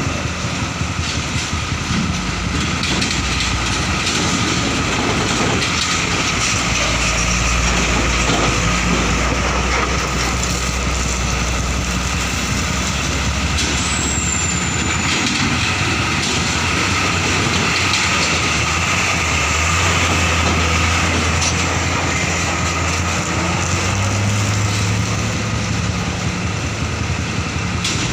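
Heavy diesel trucks running as they drive off a ferry, a low engine drone over steady noise, with the engine note shifting as they pull away. A brief high squeal about halfway through.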